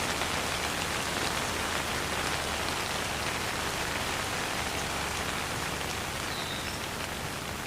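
Steady rain falling, an even hiss of drops pattering on surfaces, with no thunder.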